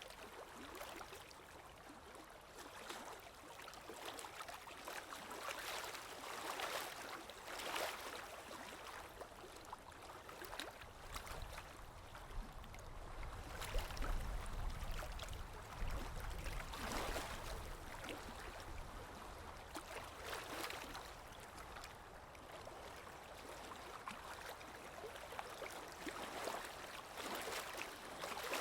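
Sea waves washing in and out, swelling every few seconds, with a deeper rumble about halfway through.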